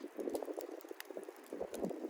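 Softwood campfire crackling steadily, with scattered sharp pops from the burning wood.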